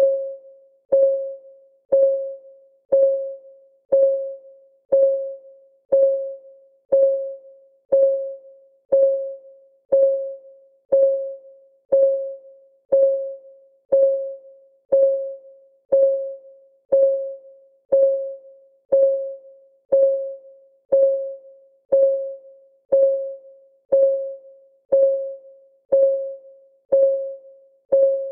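Clock-tick sound of a countdown timer: one short tick every second, each a sharp click that rings on a single mid-pitched note and fades within half a second, the same note every time.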